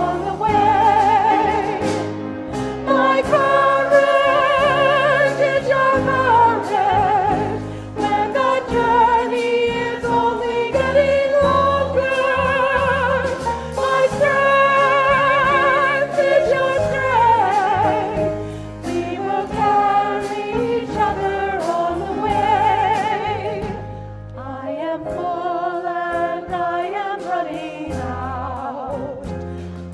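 A congregational choir singing a slow hymn with instrumental accompaniment, the voices holding long wavering notes over sustained low chords.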